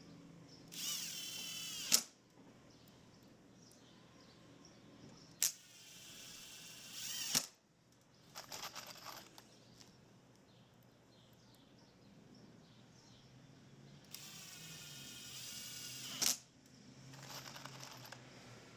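A cordless drill runs in short spurts of a second or two, its motor whine rising in pitch through each run. The louder runs stop with a sharp click, as when fastening parts of the wooden loam screen. There are three strong runs and two softer ones.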